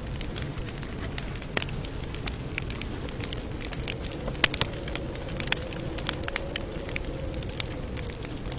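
Campfire crackling: burning wood snapping and popping in irregular sharp cracks over the steady low rustle of the flames, with one louder pop about halfway through.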